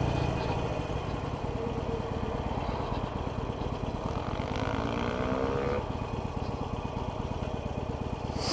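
Harley-Davidson Sportster Iron 883's air-cooled V-twin with Screamin' Eagle slip-on exhausts, running with a steady low throb as the bike slows to a stop, heard through a helmet headset microphone. A short rising whine comes in about halfway through.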